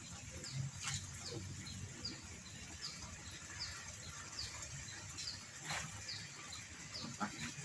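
A small bird calling over and over with short, high, downward-sliding chirps, about one every 0.8 seconds.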